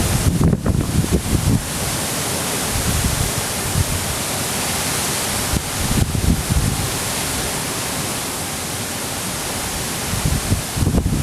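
Strong typhoon wind rushing steadily, with gusts buffeting the microphone in low rumbles shortly after the start, around six seconds in, and near the end.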